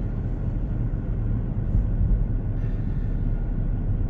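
Steady low rumble of road and engine noise from a car being driven, heard from inside the cabin.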